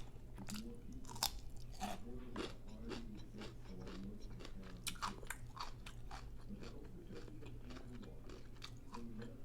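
Close-up chewing and crunching of a hard corn taco shell, irregular crisp cracks between chews, over a steady low hum.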